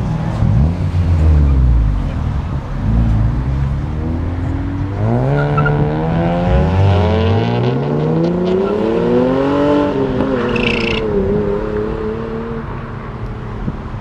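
Car engine revving with loud exhaust: a couple of quick revs, then full acceleration with the pitch climbing, dropping once at a gear change and climbing again before fading as the car pulls away.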